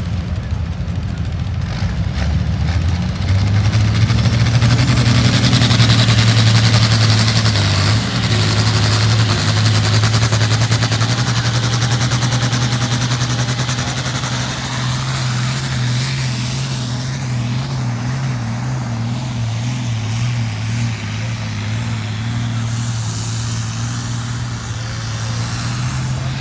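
A pulling vehicle's engine running hard down the track: a loud, steady drone that rises about three seconds in and holds, with small shifts in pitch, over a broad rushing noise.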